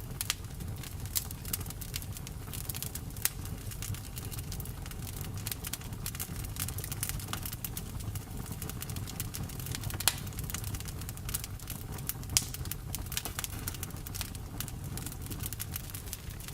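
Campfire crackling: irregular sharp snaps and pops over a steady low rumble of the burning wood, with a couple of louder pops partway through.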